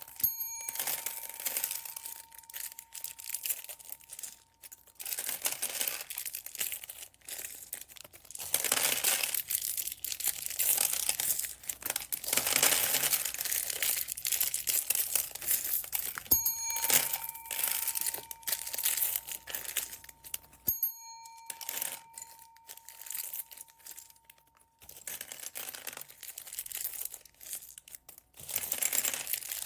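Plastic bags of beads crinkling and rustling as they are handled and opened, in uneven bursts. A bell-like chime with several pitches rings for a few seconds twice, near the start and about halfway through.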